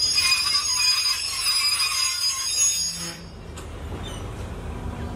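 Passenger train coaches rolling past with a steady high-pitched metallic squeal from the running gear, which drops away sharply about three seconds in as the train moves off. A quieter steady rumble remains.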